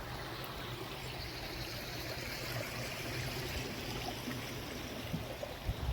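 Water running steadily along a small artificial garden stream, an even rushing trickle.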